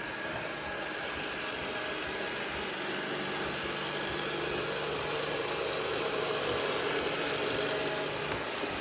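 Vacuum cleaner motor running steadily, an even rushing drone with a faint hum, swelling slightly partway through.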